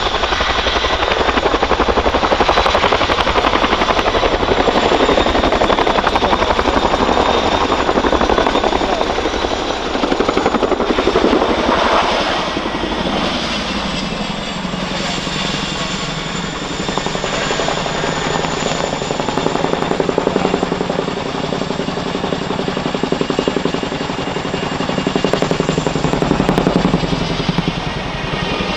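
Boeing Chinook HC4 tandem-rotor helicopter in flight: rapid rotor blade thudding with a thin, high turbine whine from its twin turboshaft engines. The sound drops a little in loudness after about twelve seconds.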